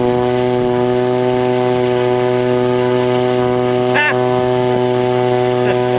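Model airplane motor and propeller held at full throttle: a loud, steady drone at one unchanging pitch that came on abruptly. About four seconds in, a brief high squeak rises and falls over it.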